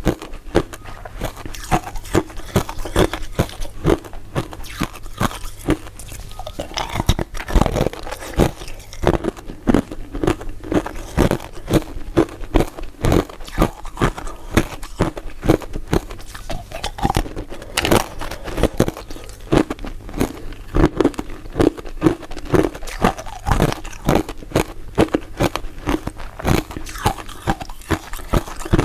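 Close-miked crunching and chewing of crisp, translucent crystal-ice dessert pieces: a steady run of sharp bites and crunches, a few a second.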